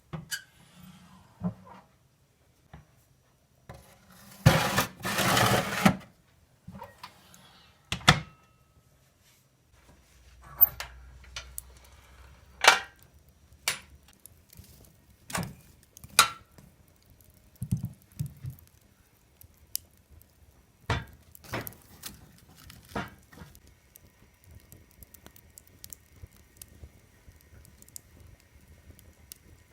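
Kitchen handling sounds: scattered clinks and knocks of utensils and dishes, with a louder noisy scrape or rustle lasting about a second and a half around five seconds in.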